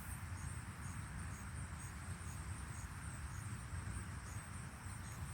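Insects chirping outdoors: a steady high trill with a softer chirp repeating about twice a second, over a faint low rumble.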